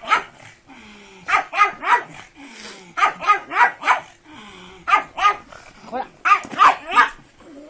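A pug barking excitedly in quick runs of three or four short barks, several runs in a row.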